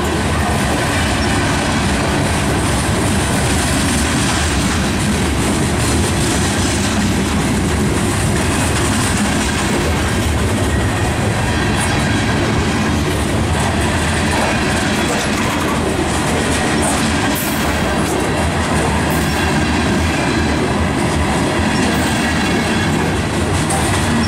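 Covered hopper cars of a freight train rolling past, a steady, loud noise of steel wheels running on the rails.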